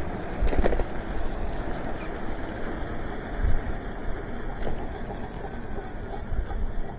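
E-bike rolling on wet pavement: steady tyre and wind rumble with a few bumps. About three seconds in, a thin, very high-pitched squeal starts and holds as the brakes are applied. The brakes sound a little grindy.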